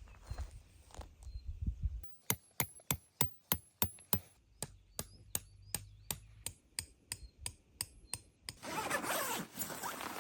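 Hammer strikes: a run of about twenty sharp knocks starting about two seconds in, quick at first and then slowing to about three a second. Near the end a loud rustling takes over.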